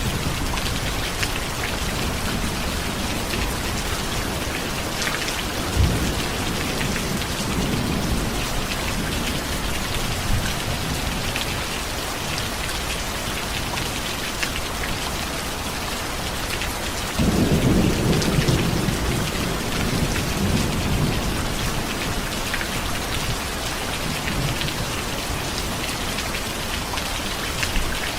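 Steady heavy rain falling, with a roll of thunder that breaks in suddenly about two-thirds of the way through and rumbles low for several seconds before fading back into the rain.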